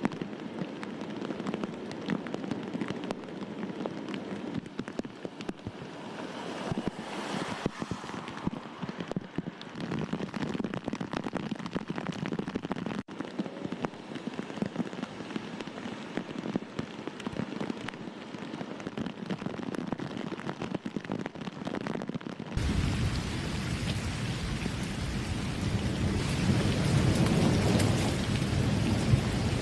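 Heavy rain falling, a steady wash of noise across several clips. There is a break about 13 s in. About 22 s in the sound turns louder, with a deep rumble beneath the rain.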